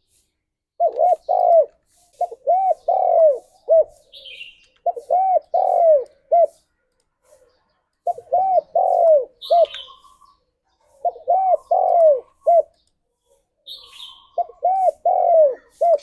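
Spotted dove (tekukur) cooing, about six repeated phrases of three or four arched coos each, ending on a short clipped note, every two to three seconds. A few brief higher chirps from another bird come between the phrases.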